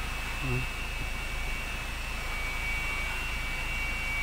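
Toyota Fortuner's engine idling steadily, heard from inside the cabin as a low drone with a thin, steady high whine over it.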